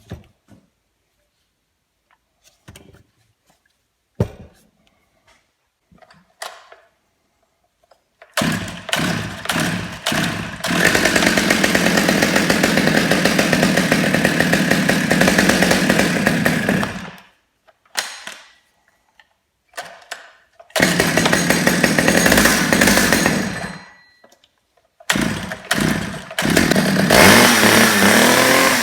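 Stihl 009L two-stroke chainsaw starting and running in spells. It sputters about a third of the way in, runs steadily for several seconds, cuts out, catches again and runs briefly twice more, and is revved up and down near the end.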